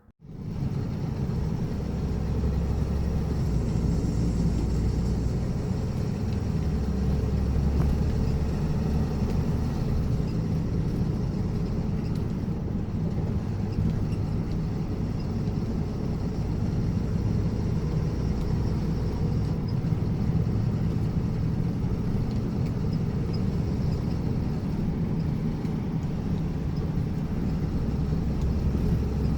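A 26-foot box truck on the road: a steady low rumble of engine and road noise.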